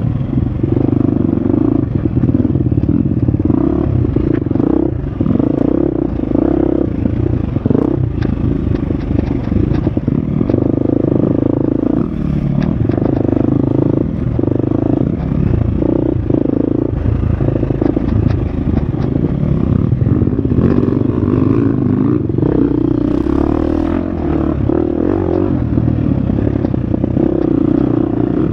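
Husqvarna FX 350 dirt bike's single-cylinder four-stroke engine running hard on a trail, its revs rising and falling with the throttle, with clatter and knocks from the bike over rough ground.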